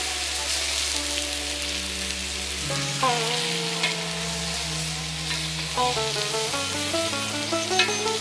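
Mushrooms sizzling in hot oil in a brass pot, stirred with a wooden spatula. Instrumental music plays over it, with held notes and pitch glides.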